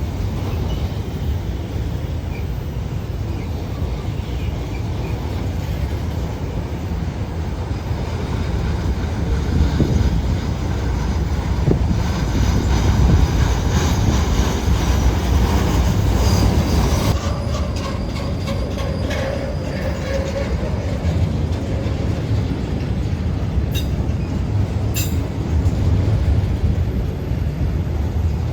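CSX freight train rolling past with a steady low rumble of wheels and cars. High-pitched wheel squeal rises about twelve seconds in and stops abruptly a few seconds later, and two sharp clicks come near the end.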